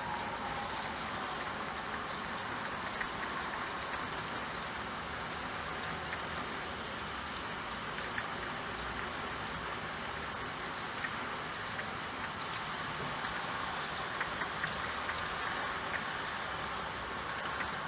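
Steady rainfall with scattered small drop ticks.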